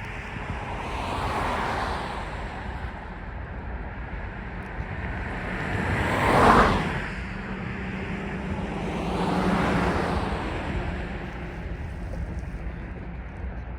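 Vehicles passing by one after another: three swells of rushing noise that rise and fade, the loudest and quickest about halfway through.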